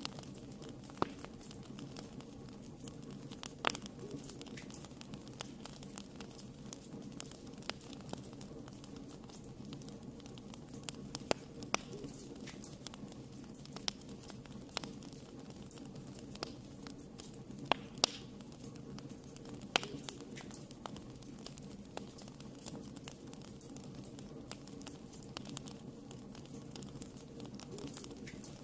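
Wood fire burning in a fireplace: irregular sharp crackles and pops, a few every couple of seconds, over a steady low rumble of the flames.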